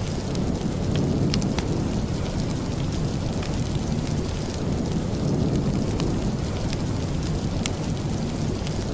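Steady heavy rain with a low rumble, dotted with scattered sharp ticks.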